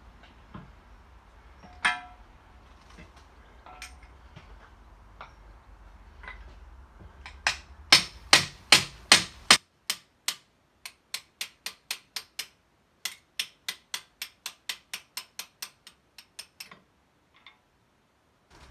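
Metal being hammered: a few scattered knocks, then a steady run of sharp strikes at about three a second, loudest in the middle and going on more lightly until near the end.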